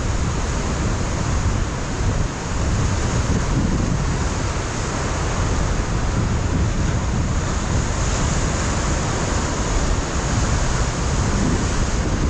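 Ocean surf breaking continuously against a rocky coastline, with strong wind buffeting the microphone in a low, fluttering rumble.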